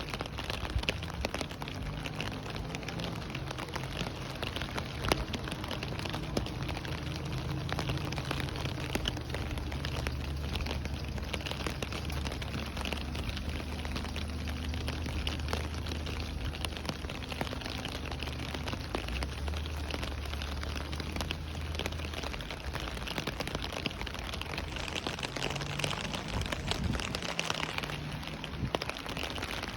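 Steady rain falling: an even hiss of many small drop impacts, with a low rumble underneath that fades out near the end.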